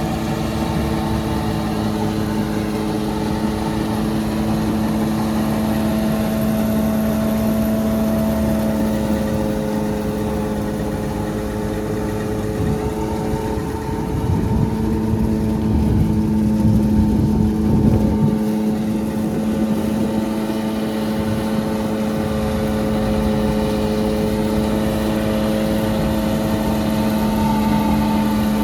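Massey Ferguson 385 tractor's diesel engine running steadily under load, with a strong, even hum. It grows louder and rougher for a few seconds about halfway through, then settles back.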